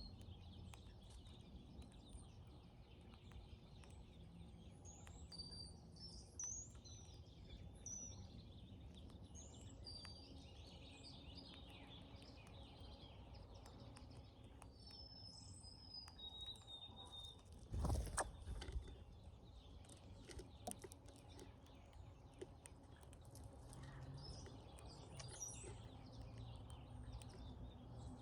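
Brown-headed cowbirds giving faint, high, thin sliding whistles and squeaky calls, on and off throughout. A single thump about two-thirds of the way through.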